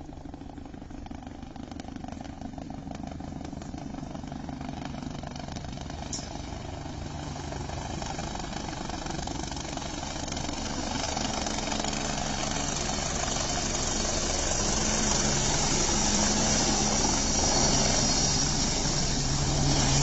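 Helicopter engine and rotors running steadily and growing gradually louder throughout.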